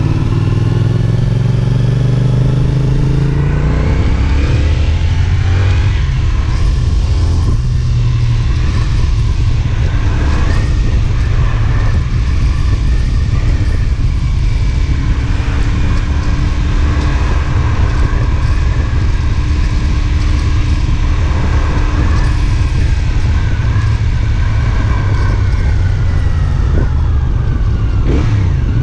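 CFMoto 450SR S parallel-twin engine pulling hard and rising in pitch for the first few seconds, then running at a steady road speed with small changes in revs, over strong low wind noise.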